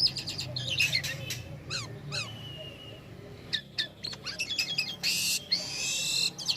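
Jalak kapas starling singing: a fast, varied run of chirps, clicks and whistles, with a held whistle about two and a half seconds in and a harsh rasping call lasting about a second near the end.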